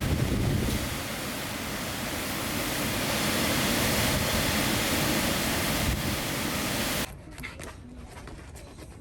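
Typhoon storm noise: strong wind and heavy rain in a loud, even rush that cuts off abruptly about seven seconds in.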